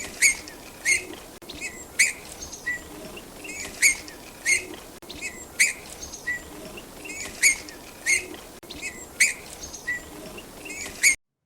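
An animal chirping: short, high, upward-sweeping calls repeated roughly every half second to second, cutting off abruptly near the end.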